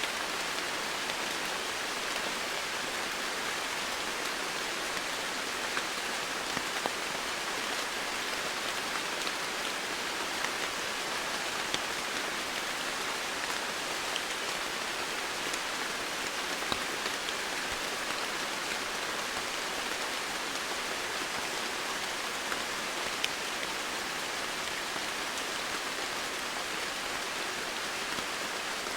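Steady rain falling on foliage, with an even hiss and scattered louder drop ticks.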